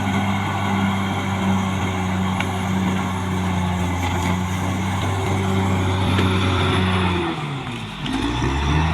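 Caterpillar D6R XL bulldozer's diesel engine running steadily at working revs. About seven seconds in, the revs drop sharply, then climb back up just before the end.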